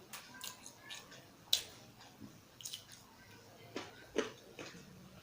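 Close-miked eating sounds: chewing a mouthful of food with wet, sticky mouth clicks and smacks at irregular intervals, the sharpest about a second and a half in and just after four seconds.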